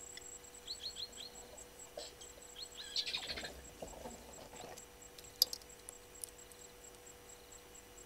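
Faint bird chirps: a quick run of four short high notes about a second in, more near three seconds in, then a harsher, rougher call that runs for about a second and a half. A single sharp click follows about halfway through.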